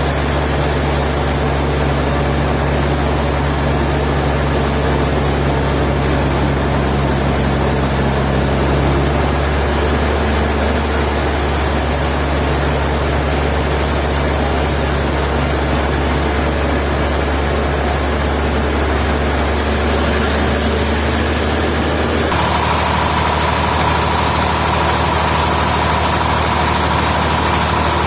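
Heavy sawmill machinery running steadily: a low engine hum under a broad noisy rush. In the last several seconds a steady high whine joins in.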